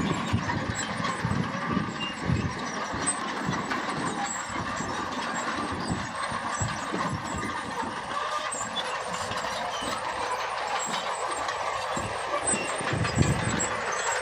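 Heavy earthmoving machinery working: the diesel engines of a bulldozer or dump trucks run steadily with an uneven low rumble and scattered faint clanks.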